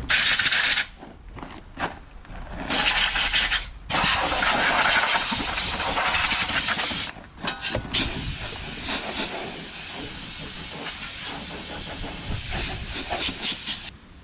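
Simplicity Landlord garden tractor running, with a loud hissing noise over a faint low engine hum that cuts in and out in stretches.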